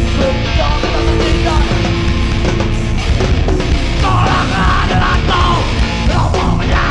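Live heavy hardcore band playing at full volume: distorted electric guitars, bass and drums.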